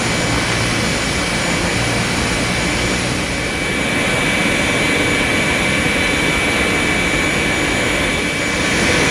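Boeing 737-200's Pratt & Whitney JT8D turbofan engines running: a steady high whine over a dense, even rushing noise.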